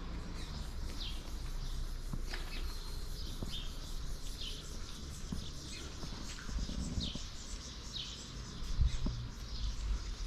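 A bird calling over and over, short falling chirps roughly once a second, over a steady low rumble, with a dull thump near the end.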